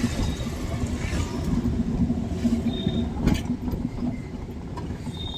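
Car driving on a highway: steady low road and engine rumble with a faint constant hum. A brief high-pitched tone sounds just before three seconds in and again at the end, and a single sharp click comes at about three seconds.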